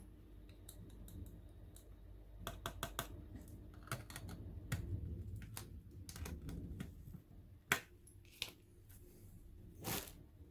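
Irregular clicks and taps of a laptop's plastic and metal parts being handled during disassembly: a quick run of clicks, a single sharp click about three-quarters through and a short scrape near the end.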